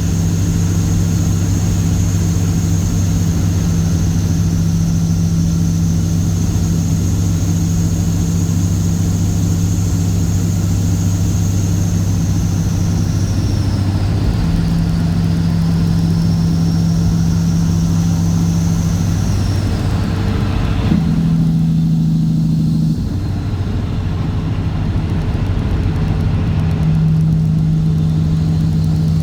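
Straight-piped Cat C15 ACERT diesel in a Kenworth W900 running steadily with a deep, even note. A high whine rides above it, dips and falls away about twenty seconds in, when the engine note briefly changes pitch before settling again.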